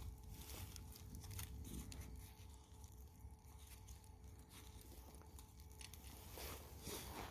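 Faint crackling and ticking of a campfire over a low rumble, with a louder, busier patch of crackling near the end.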